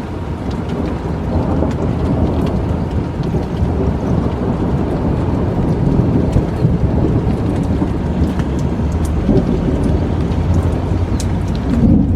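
Thunderstorm: steady rain falling with a long, low rumble of thunder rolling under it.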